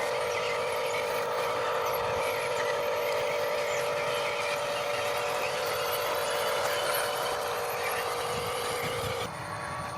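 Electric motor and gearbox of a radio-controlled Huina construction model whining steadily at one pitch, cutting off about nine seconds in.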